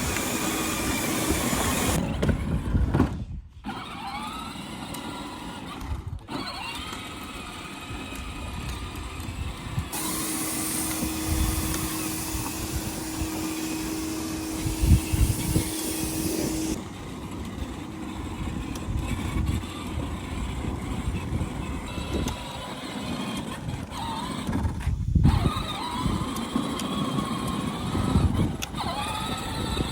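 Electric pressure washer spraying, a steady motor hum under a hiss of water, in two stretches: it stops about a second in, starts again about ten seconds in and cuts off suddenly about seven seconds later. In between, mixed outdoor noise.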